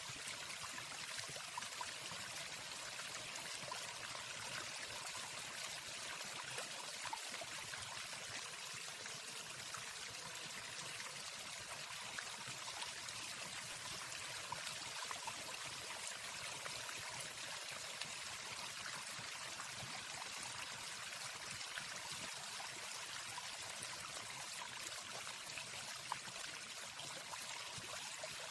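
Steady rushing of a waterfall, an even water noise with no birdsong over it.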